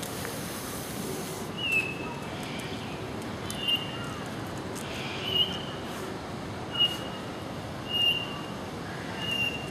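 A bird calling: a short, high whistled note repeated six times, about every one and a half seconds, over a steady background hiss.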